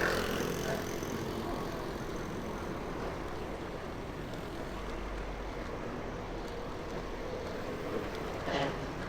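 Steady street traffic noise of motorbikes and cars, with a brief louder swell about eight and a half seconds in.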